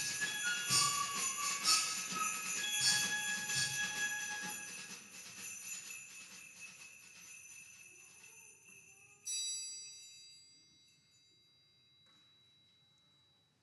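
Sleigh bells jingling in a rhythmic pattern with short, high bell-like notes as a concert band piece dies away. About nine seconds in, a single struck bell note rings out and slowly decays into near silence.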